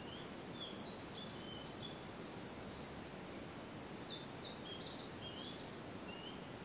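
A songbird singing two phrases of quick, varied high notes, the first about three seconds long and the second starting about a second after it ends, over a steady background hiss.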